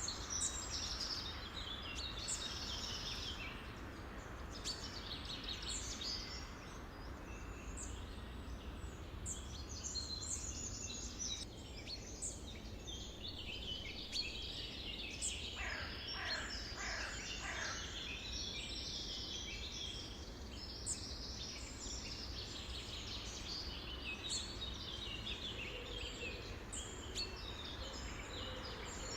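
A chorus of many songbirds chirping and singing over one another. About halfway through, a short run of lower notes slides downward, all over a steady low background rumble.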